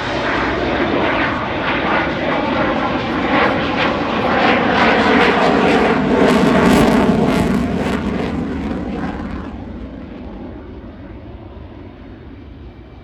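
Eurofighter Typhoon FGR4's twin Eurojet EJ200 jet engines roaring with a crackling edge as the jet flies past. It grows louder to a peak about two-thirds of the way through, then fades away.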